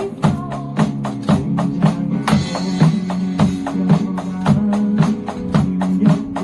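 Pop-rock song playing with a drum kit played along to it: steady quick cymbal or hi-hat strokes over the backing track, and a cymbal crash a little over two seconds in.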